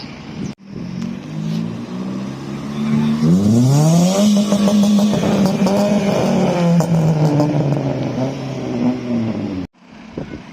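A car engine revving hard under acceleration. Its pitch climbs steeply about three seconds in and is held high for several seconds, then the sound cuts off abruptly near the end.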